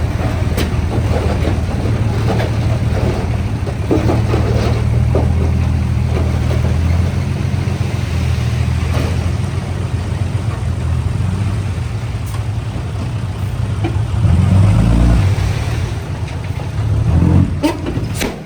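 Heavy earthmoving machinery's diesel engine running steadily, with scattered knocks. The engine swells louder about fourteen seconds in and again near the end.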